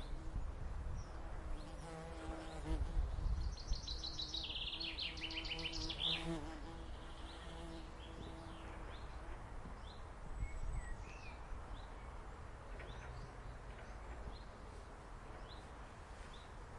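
Common chaffinch singing one song, a run of rapid notes falling in pitch and ending in a flourish, while an insect buzzes close by for a few seconds. Other birds call faintly through the rest.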